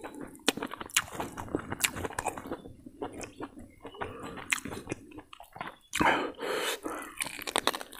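Close-up chewing, biting and lip-smacking of a person eating rice and mutton curry by hand, with irregular wet clicks and squishes as fingers mix the rice. A louder stretch of chewing comes about six seconds in.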